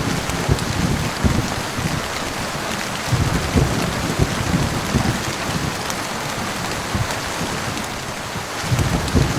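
Steady heavy rain pattering on a surface, with low rumbles of thunder swelling up at times, near the start, in the middle and again near the end.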